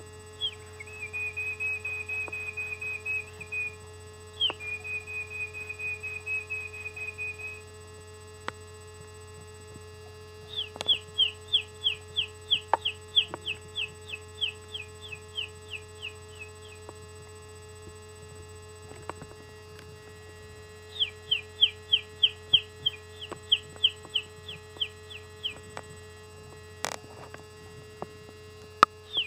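A bird calling: two long even trills, each opening with a quick downward slur, then two runs of rapid, evenly spaced down-slurred notes, about two to three a second. A steady electrical hum runs underneath, and there is one sharp click near the end.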